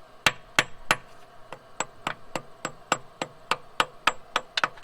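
Hammer tapping steadily on metal, about three to four sharp strikes a second, each with a short metallic ring: striking the freshly welded washer and bolt stub to shock the seized threads loose.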